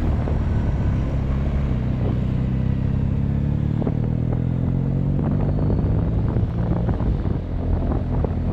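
Motorcycle engine under way, its note rising for a few seconds as the bike accelerates, then holding steady.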